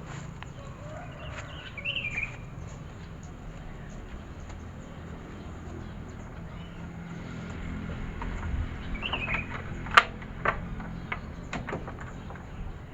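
Wild birds chirping in two short phrases over a steady low hum, with a few sharp clicks near the end, one of them the loudest sound.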